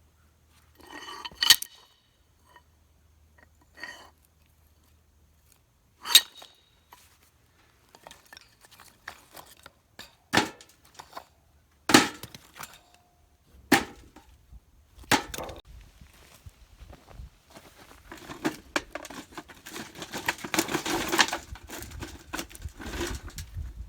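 Single hard hammer blows, about six of them several seconds apart, on the steel head of a homemade wedge-type kindling splitter, each a sharp metallic strike with a short ring. Near the end comes a few seconds of continuous scraping and rattling.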